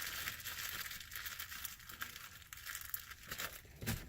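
Plastic bags of pipe tobacco being handled and crinkled, a continuous crackly rustling.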